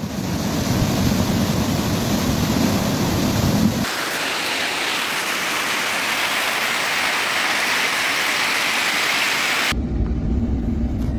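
Noise of a heavy rainstorm and floodwater, cut in three parts: a rush with a heavy low rumble, then about a second in... a steady high hiss from about four seconds, then the low rush again near the end.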